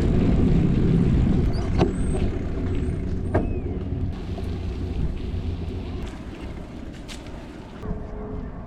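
Low rumble of road traffic that is loudest at the start and fades away, with a few sharp clicks and brief squeaks.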